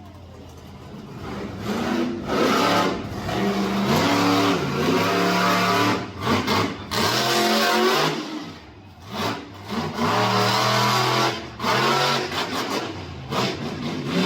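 Monster truck engine revving hard in repeated bursts. It builds up over the first couple of seconds and drops off briefly a few times as the throttle is lifted between pulls.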